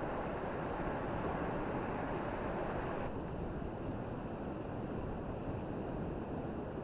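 Steady rushing noise of wind and surf, with wind buffeting the microphone; the upper hiss drops away abruptly about three seconds in.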